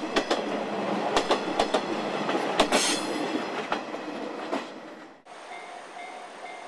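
Passenger coaches rolling past at speed, their wheels clattering over rail joints in a string of sharp clacks over a steady rumble. The train sound cuts off about five seconds in, leaving a faint, evenly repeating high tone.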